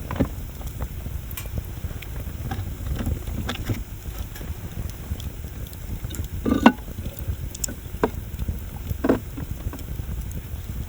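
Wood bonfire burning, with irregular crackles and pops over a steady low rumble. The two loudest pops come about two-thirds of the way through and again near the end.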